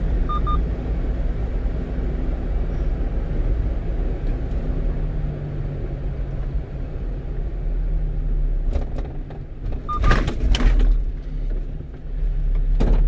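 One-ton truck driving, heard inside the cab: steady engine and road rumble. A short electronic double beep sounds at the start and again about ten seconds in, and a few sharp knocks come near the end.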